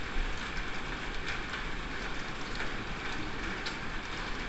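Steady hiss of a sudden heavy downpour, with scattered ticks of raindrops striking the window glass over a low rumble.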